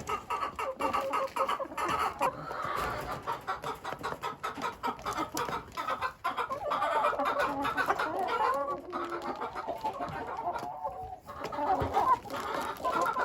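Several hens clucking and murmuring continuously, with scattered sharp clicks like pecking.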